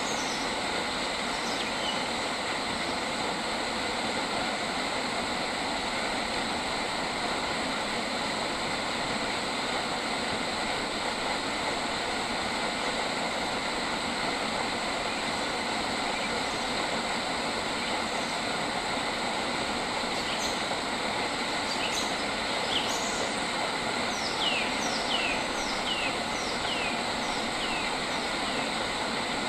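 A steady, dense outdoor hiss with a few faint constant high tones. Near the end, a bird calls a quick run of about six falling notes.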